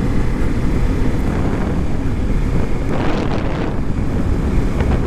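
Motorcycle engine running while riding, with heavy wind rumble on the microphone; a brief rise in hiss about three seconds in.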